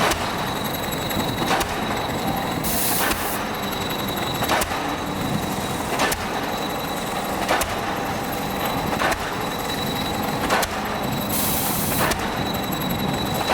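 Pile-driving hammer on an excavator-mounted pile rig striking a pile with regular sharp blows, about one every one and a half seconds, over a steady engine running underneath. Two short hisses come about three seconds in and near the end.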